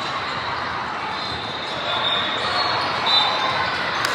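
Indoor basketball game: a ball bouncing on the court amid echoing crowd chatter, with a few short high squeaks, likely sneakers on the hardwood, about two to three seconds in.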